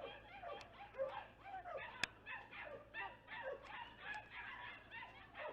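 A flock of young chickens peeping and cheeping: many short, falling calls overlapping without a break. There is one sharp click about two seconds in.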